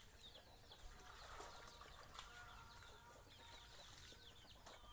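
Chickens, faint: many short, high, falling cheeps repeated all through.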